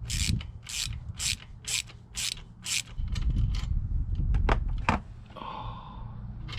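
Hand ratchet wrench worked in quick strokes, about two a second, six times. A low rumble and a couple of sharp knocks follow.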